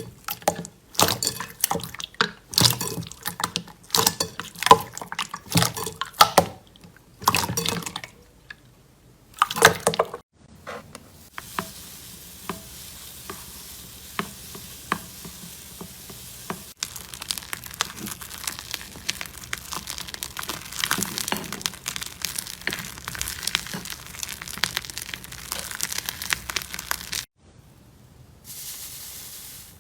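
Slime being squeezed and poked with the hands: a quick run of wet squelches and sticky popping clicks. From about ten seconds in this gives way to a steady fine crackling hiss, which grows denser a few seconds later and then drops to a quieter stretch near the end.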